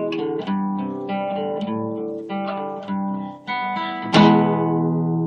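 Acoustic guitar playing an instrumental passage: plucked notes and chords ring and fade, with a louder strummed chord about four seconds in.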